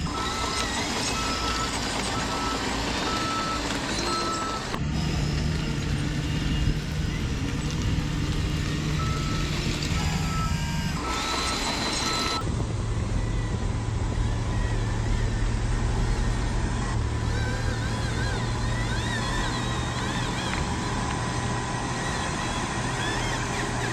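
Radio-controlled model trucks and machines running with a steady motor hum, with a truck's reversing beeper sounding a run of evenly spaced beeps in the first few seconds and again about halfway through.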